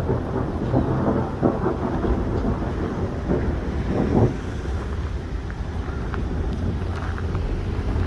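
Thunderstorm: rain falling and wind buffeting the microphone under a low rumble of thunder, rougher and louder in the first four seconds, then settling to a steady rumbling hiss.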